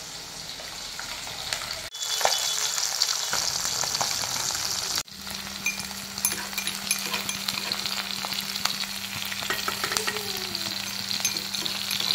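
Sliced onions, garlic and panch phoron sizzling in hot oil in a stainless steel kadai, with a steel spoon scraping and clicking against the pan as they are stirred. The sizzle gets louder about two seconds in.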